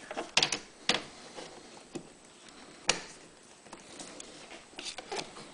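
Handling noise as a rubber fuel hose is worked onto a plastic T connector: a few scattered sharp clicks and knocks, the loudest about half a second in, just before one second and just before three seconds.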